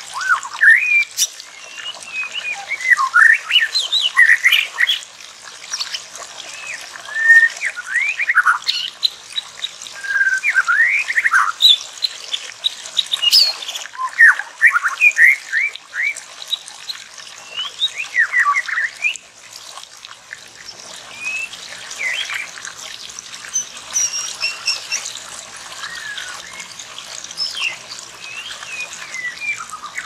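Songbird calls: many short whistled notes sweeping up and down, several a second. Dense and loud over the first twenty seconds, then sparser and fainter.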